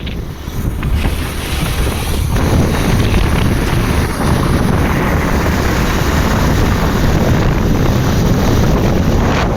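Wind rushing over the microphone on a moving motorbike: a loud, steady rumble that gets louder about two seconds in.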